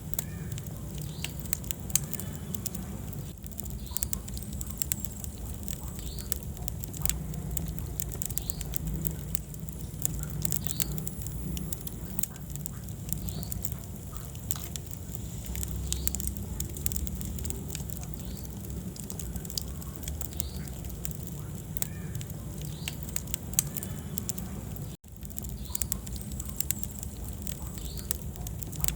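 Wood fire burning in a fireplace: irregular sharp crackles and pops over a steady low rumble of flame. The sound cuts out for an instant near the end.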